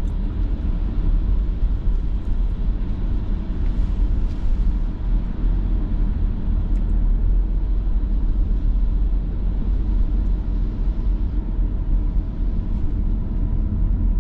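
Car driving on a snowy road, heard from inside the cabin: a steady low rumble of road, tyre and engine noise.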